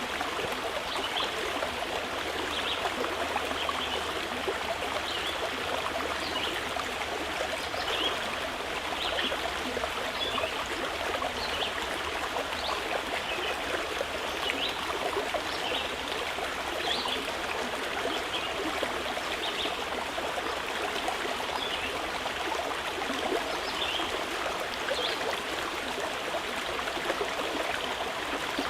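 Mountain river flowing steadily over rocks, an even rushing of water, with a bird's short, high chirps repeated every second or two.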